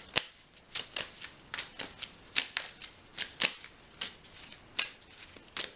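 Tarot cards being shuffled by hand: a run of crisp card snaps, about three or four a second, uneven in rhythm.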